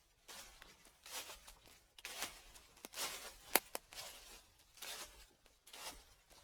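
Slow footsteps crunching through dry fallen leaves, about one step a second, with a sharp crackle about three and a half seconds in.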